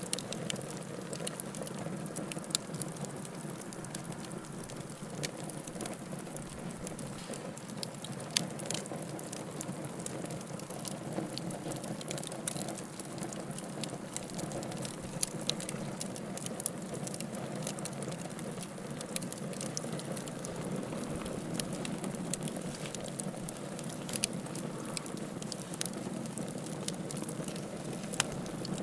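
Wood fire burning in a fireplace: a steady low rush of flame with frequent sharp crackles and occasional louder pops of the burning firewood.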